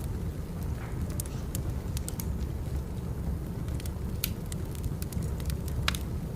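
Burning firewood: a steady low rumble of the fire with scattered sharp crackles and pops, the strongest pop near the end.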